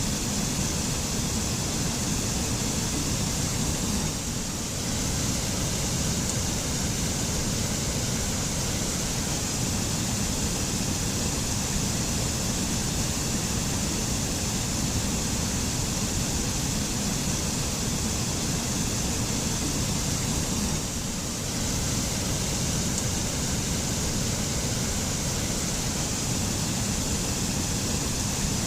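Mountain waterfall in a forest: a steady, continuous rush of falling water, a deep rumble together with a bright hiss.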